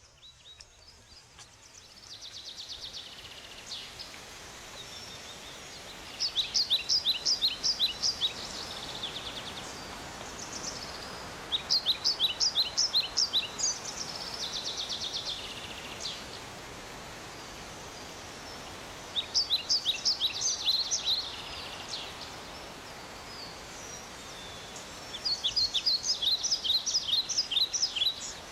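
A bird singing four phrases of rapid, repeated high chirping notes, each phrase about two seconds long, over steady outdoor background noise.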